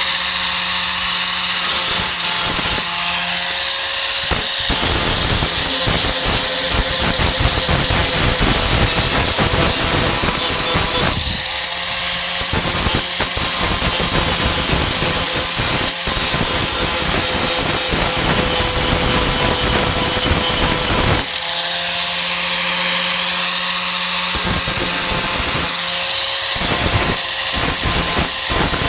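Electric 4-1/2 in. angle grinder with a Type 27 grinding disc grinding welded steel sheet metal, its motor running at a steady whine. In three long passes the disc bears on the metal with a rough grinding noise, and between them it spins freely.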